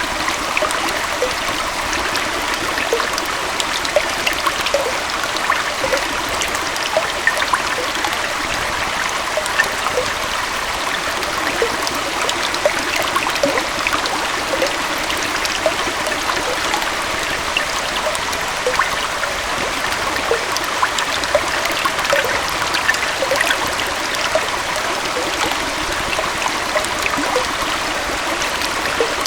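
Small forest waterfall and stream running steadily, a constant rushing wash of water with many small splashes and gurgles in it.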